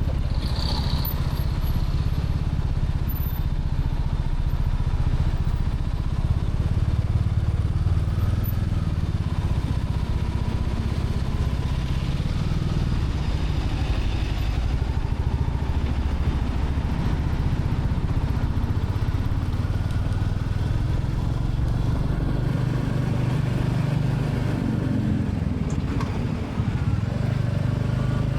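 Royal Enfield Classic 350's single-cylinder engine running steadily under way, with road noise, briefly easing off near the end.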